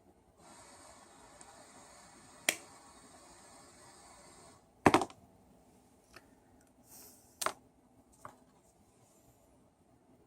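Sharp clicks and knocks from small parts and hand tools being handled on a workbench, with the loudest a quick cluster about halfway through. The first few seconds carry a faint rustling hiss.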